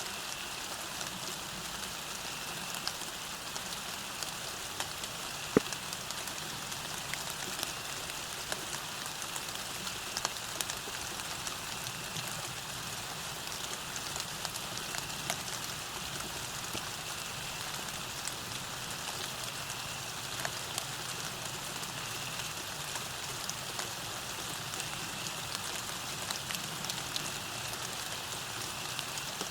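Steady rain falling on a road, a continuous hiss with many small drops ticking through it. One sharper drop stands out about five and a half seconds in.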